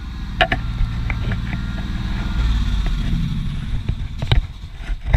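Tractor engine running steadily, with a few sharp knocks; the engine noise eases off about four seconds in.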